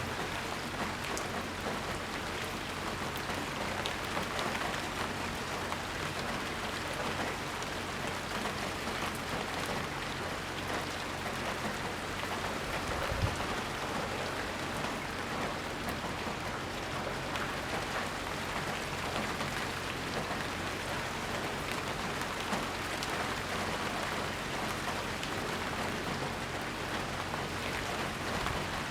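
Steady rain falling, a dense even patter of drops on surfaces. One short low thump comes about halfway through.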